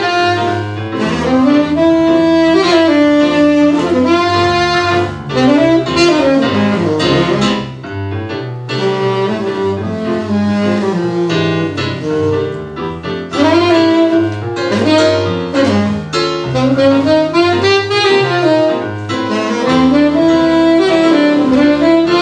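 Tenor saxophone playing a jazz melody line over keyboard accompaniment.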